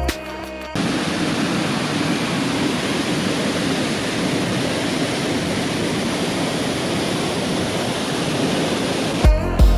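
Steady rush of a waterfall, falling water with no let-up, between stretches of music at the start and near the end.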